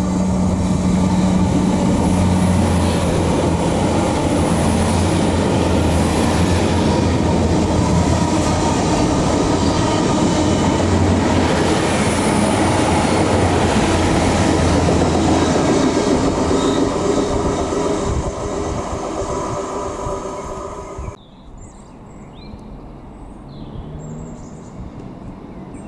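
A train passing close by with a loud rumble and rail clatter, a steady low hum under it for the first fifteen seconds or so, fading from about eighteen seconds in. Just after twenty seconds the sound cuts off abruptly to a quiet outdoor background with faint high chirps.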